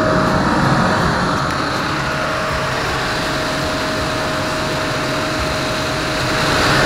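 Opel Astra J's Ecotec engine idling steadily, with its electric radiator cooling fan running. The fan is coming on with the engine barely warm, at about 20 degrees, which the owner takes for a faulty thermostat.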